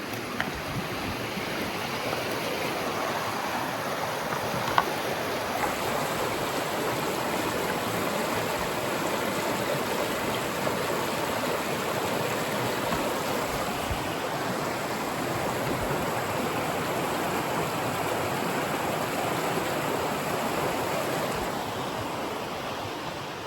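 Steady rush of flowing water from a stream running over rocks, even and unbroken, with one small click about five seconds in.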